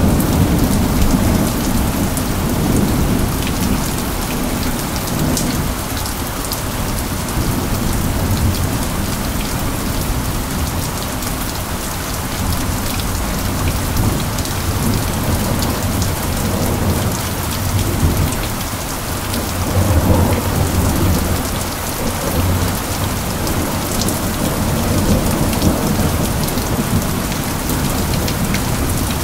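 Steady heavy rainfall with a deep rolling rumble of thunder underneath, the rumble swelling near the start and again about two-thirds of the way through.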